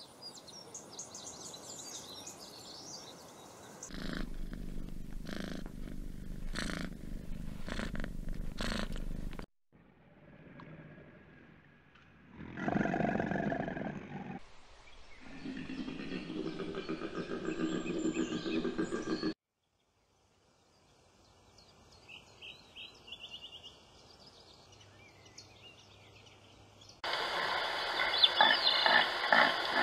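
A string of short animal sound clips joined by abrupt cuts, with brief quiet gaps between them. Near the end comes the loudest part: a red deer stag roaring.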